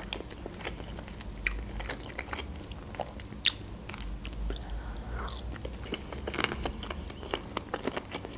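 A person biting and chewing chicken wing meat in sweet-and-sour sauce, with irregular wet mouth smacks and clicks.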